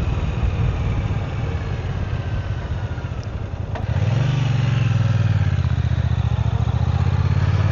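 Triumph America motorcycle engine running with an uneven, pulsing low sound, then about halfway through the revs pick up a little and it settles into a louder, steadier drone.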